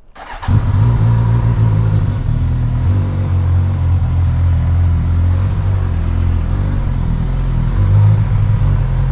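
Motorcycle engine starting about half a second in, then idling steadily, with a short rise in revs about eight seconds in.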